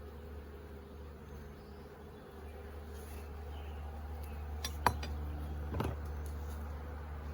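Honeybees buzzing in a steady hum around an open five-frame nuc hive during an inspection, with two sharp clicks a little under five seconds and about six seconds in.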